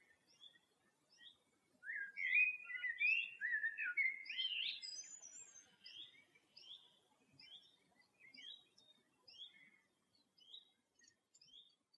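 Songbirds chirping and singing: short, repeated chirps throughout, with a louder burst of varied song from about two to five seconds in.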